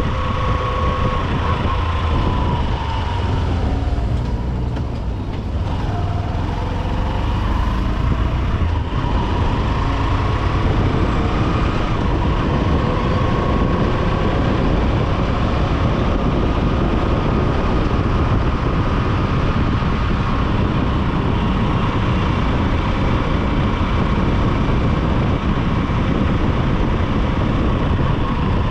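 Honda SP125 single-cylinder engine running under way in city traffic, mixed with wind rush on a helmet-mounted microphone and the noise of surrounding vehicles. The engine pitch drops a few seconds in, then holds steady.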